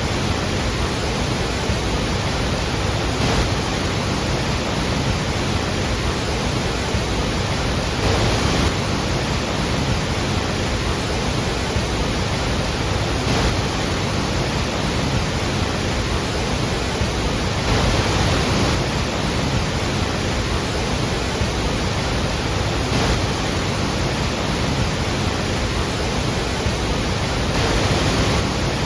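Iguazú Falls, a huge waterfall: a mass of falling water making a steady, dense rush from deep rumble to high hiss, swelling a little about every five seconds.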